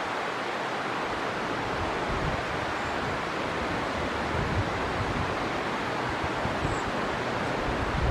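River water flowing, a steady even rushing, with a few soft low gusts of wind on the microphone.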